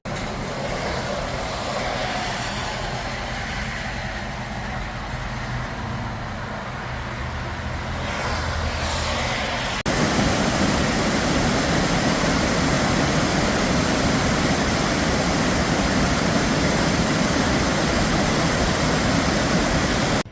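Truck driving along a road, its engine and tyre noise steady. It cuts abruptly about ten seconds in to a louder stretch of road noise.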